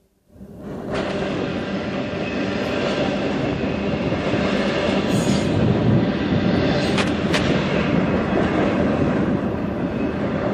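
Freight train cars rolling past close by in a steady loud rumble, wheels clacking over the rail joints, with two sharp clicks about seven seconds in.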